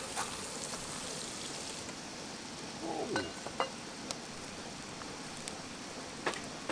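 Wood campfire crackling: scattered sharp pops and snaps over a steady hiss, with a brief gliding sound about three seconds in.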